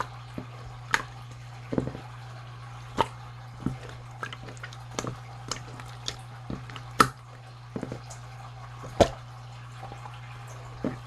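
Slime being played with by hand, making irregular wet pops, clicks and plops, about one or two a second. A steady low hum runs underneath.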